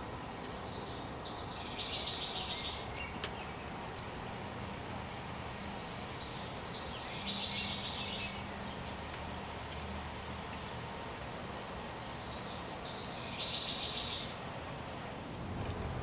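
A songbird singing the same short song three times, about six seconds apart: a few high notes followed by a lower rapid trill, over steady outdoor background noise.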